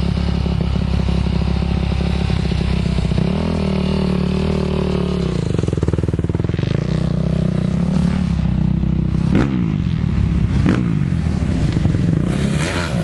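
Motocross bike engines racing, revving up and down as they shift through the gears, with the pitch rising and falling. Two brief sharp bursts come near the end.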